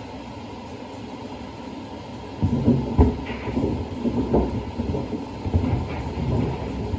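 Samsung WD70T4047CE front-loading washer-dryer running a wash with sneakers in the drum. After a steady hum for the first couple of seconds, irregular heavy thumps and knocks begin as the shoes tumble against the drum. The machine stands on feet that the owner says were never levelled.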